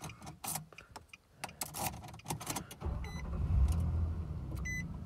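Keys clicking in the ignition, then the 2013 Nissan Frontier's engine cranks and catches about three seconds in and settles into a steady idle: the freshly programmed key is accepted by the immobilizer. A dashboard chime beeps twice as it starts.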